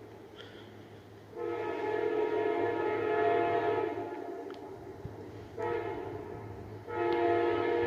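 Locomotive multi-tone air horn blowing: a long blast, a short one, then another long one beginning near the end, the long-long-short-long pattern for a grade crossing. A steady low engine rumble runs underneath.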